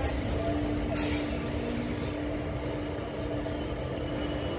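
Indian Railways passenger train coach running slowly into a station, heard from its open door: a steady rumble of wheels on rail with a constant hum. Two short sharp sounds come in the first second or so.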